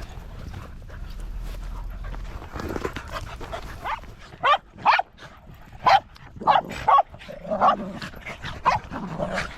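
Small dogs yapping: a run of about nine short, sharp barks starting about four seconds in.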